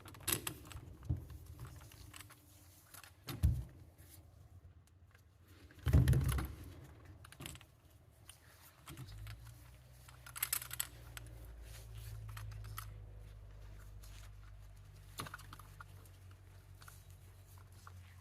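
Handling noises as a rubber fuel-pump gasket is greased and worked down on the pump assembly: scattered small clicks and knocks, with two louder thumps about 3 and 6 seconds in. A steady low hum comes in about halfway.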